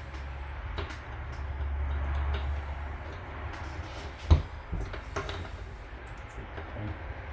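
Metal outboard parts being handled and fitted during lower-unit reassembly: scattered light clicks and one sharp knock about four seconds in, over a low rumble.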